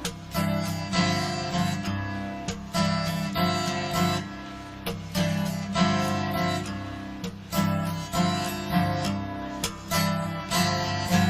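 Acoustic guitar strummed in a steady rhythm, playing chords between sung verses of a live song.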